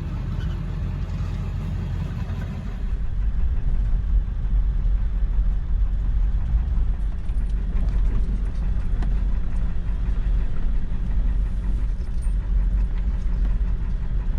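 Truck driving, a steady low engine and road rumble that grows louder about three seconds in.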